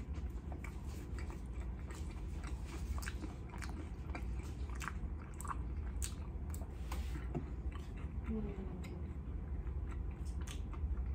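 Close-up mouth sounds of chewing a toasted everything bagel with cream cheese and lox: a bite, then wet chewing with scattered sharp clicks and smacks, over a steady low hum.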